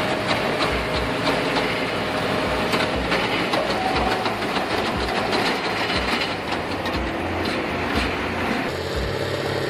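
Heavy machinery running with a steady, dense mechanical din and a low thump recurring about every second.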